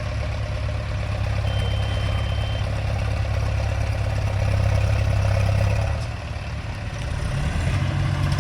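Tractor's diesel engine running steadily under load, easing off briefly about six seconds in and then picking up again.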